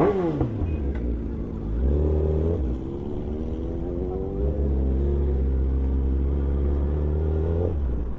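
A high-performance engine goes past fast at the start, its pitch dropping sharply. It then revs up briefly at about two seconds, and pulls a long, steadily rising rev from about four and a half seconds until it cuts off near the end.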